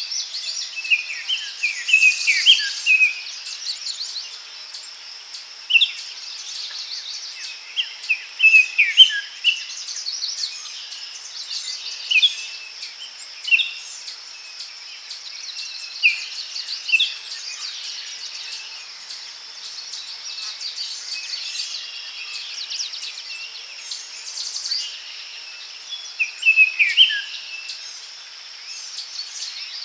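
Daytime forest ambience: birds calling in short, repeated phrases that slide downward in pitch, over a steady high drone of insects.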